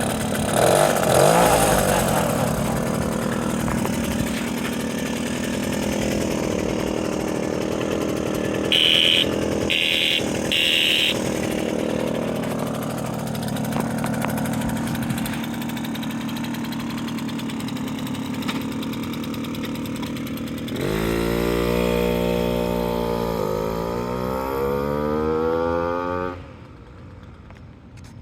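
1980 Puch Magnum moped's 49cc two-stroke single-cylinder engine running at idle. Three short horn beeps sound about a third of the way through. Near the end the engine is revved up twice, its pitch rising each time, then it cuts off suddenly.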